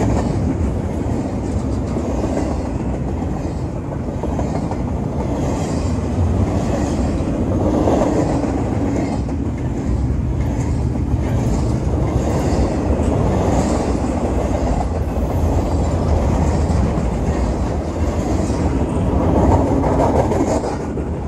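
Double-stack intermodal train's container-laden well cars rolling past at close range: a steady rumble of steel wheels on rail with a rhythmic clickety-clack.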